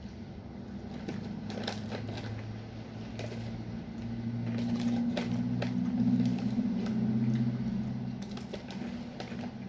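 Crunching of crisp potato chips being chewed, a scatter of short crackly crunches, over a low steady hum that grows louder in the middle.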